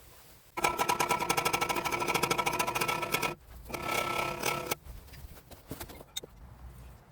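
Pneumatic tool hammering rapidly on metal, with the struck part ringing. It runs in a burst of nearly three seconds, then after a brief pause a second burst of about a second.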